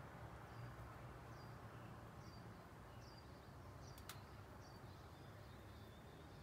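Near silence: quiet outdoor background with a small bird's faint, short, high chirps repeating about once a second, and a single click about four seconds in.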